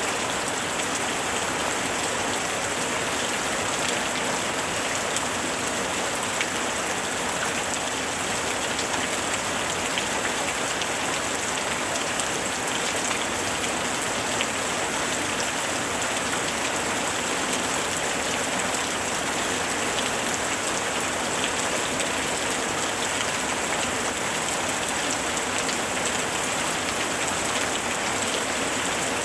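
Steady rain falling on a surface, an even hiss of water with many fine individual drop patters.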